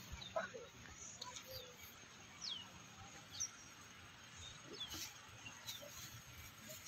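Faint bird chirps: a handful of short, high calls, each falling quickly in pitch, scattered over a quiet background.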